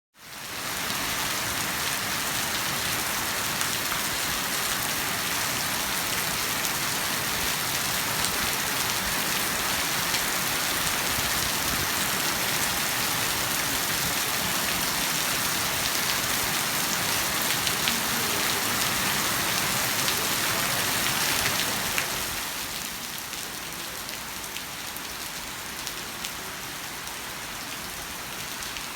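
Heavy rain falling steadily, a dense even hiss of drops on surfaces, becoming noticeably quieter about three-quarters of the way through.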